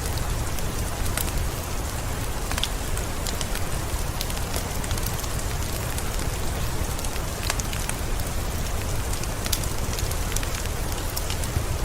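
Heavy forest rain falling steadily: an even hiss with many scattered sharp drop impacts close by, over a steady low rumble.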